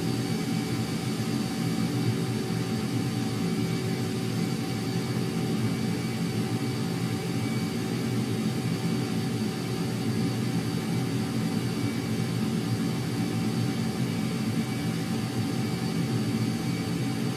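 Jet aircraft engines running at a steady, unchanging level: a constant rush with a thin, steady whine over it.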